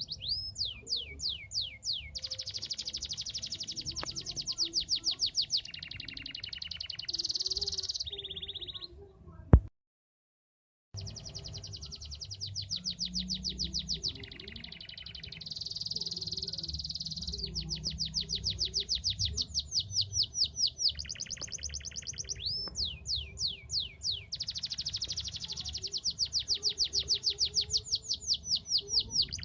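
Domestic canary singing a long, lively song of fast trills and rolls, with rapid series of repeated down-sweeping notes alternating with buzzier rolled phrases. The song breaks off with a sharp click about ten seconds in, drops to a second of dead silence, then carries on.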